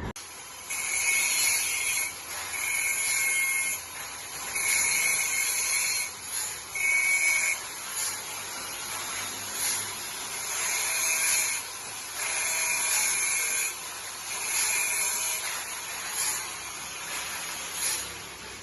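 A steel sawmill bandsaw blade being worked by hand tool in repeated strokes: a hissing metal scrape about a second long, about nine times with short pauses between, some strokes with a faint ringing tone.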